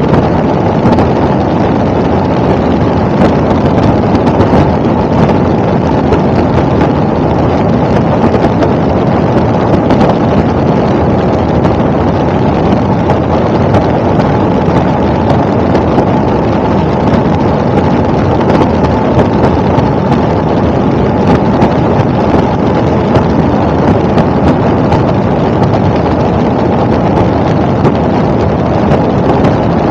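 Helicopter in flight: a loud, steady noise of engine and rotor, unchanging throughout.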